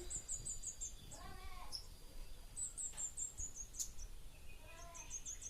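Small birds chirping: quick runs of very high, rapid chirps, one starting about two and a half seconds in and another near the end, with single high notes between. Two short lower calls come about a second in and near the end.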